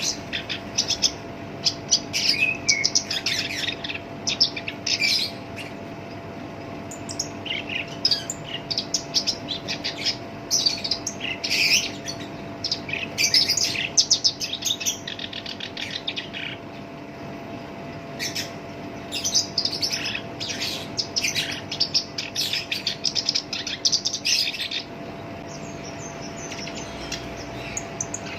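Black-browed reed warbler singing in its rough, harsh voice: rapid chattering phrases of quick high notes, each a few seconds long, broken by short pauses. A faint steady hum runs underneath.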